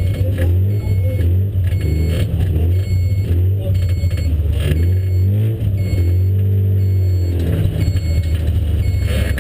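Car engine heard from inside a stripped, roll-caged cabin, running at a low, steady idle as the car rolls slowly. About six seconds in, the engine is briefly revved, its pitch rising and falling.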